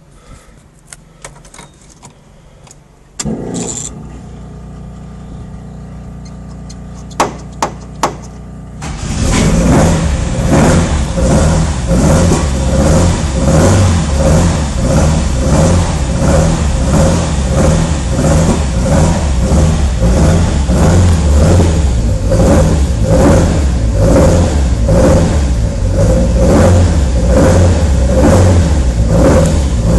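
1965 Alfa Romeo Giulia Sprint GT's twin-cam four-cylinder engine being cold-started. After a few clicks and a steady hum, the engine catches about nine seconds in. It then runs loud at a fast warm-up idle with a regular pulsing beat.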